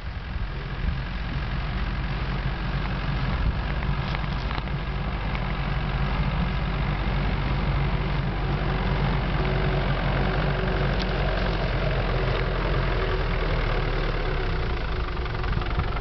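Daihatsu Rocky 4x4's engine running steadily at low speed as it drives across grass, growing louder over the first few seconds as it comes closer.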